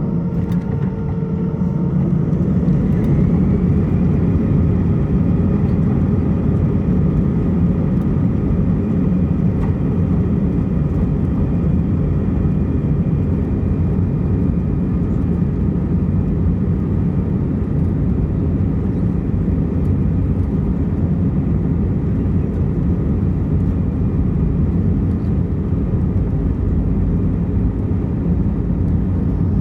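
Airbus A320 jet engines heard inside the cabin, spooling up with a rising whine over the first few seconds and then running steadily at high power, typical of the takeoff roll and climb.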